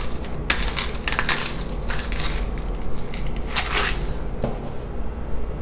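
Pink salt being dispensed over food from its container: an irregular run of short gritty crunching sounds.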